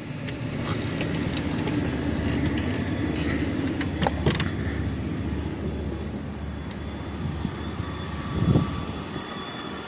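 Chevy truck's swapped-in 4.3 V6 idling steadily with the newly charged air conditioning running. There are a couple of light clicks about four seconds in and a low thump near the end.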